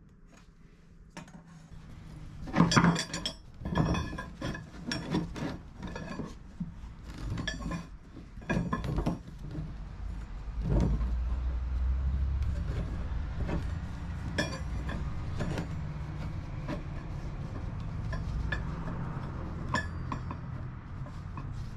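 Steel pieces clinking and clanking together as they are handled, a quick run of ringing knocks, followed from about halfway by a steady low rumble with a few scattered clinks.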